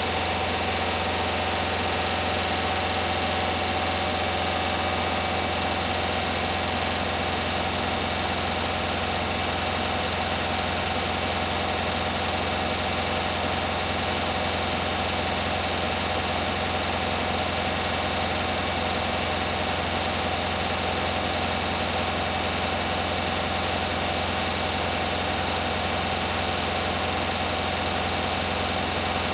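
Beko WTK104121W front-loading washing machine spinning fast on its 1400 rpm spin cycle: a steady, unchanging low hum and vibration with a constant whine from the drum and motor.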